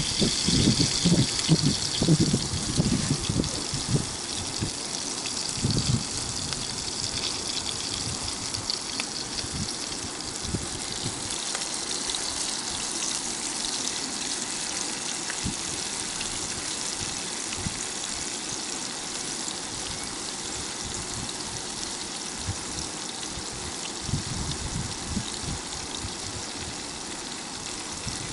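Flour-coated rotan fish frying in oil in a pan: a steady sizzling hiss, louder over the first few seconds, with some low knocks and rumble early on.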